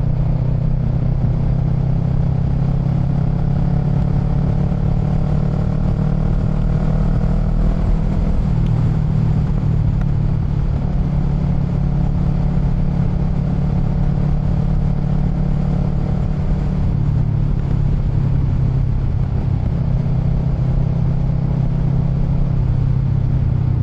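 Motorcycle engine running at a steady speed, its note shifting slightly a couple of times.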